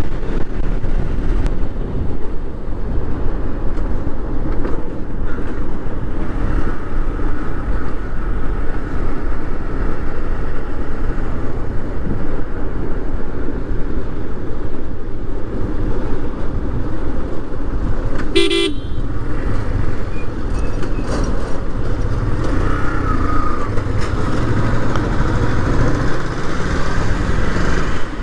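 Yamaha Fazer motorcycle riding along, its engine running under steady wind and road noise, with one short vehicle horn toot about eighteen seconds in.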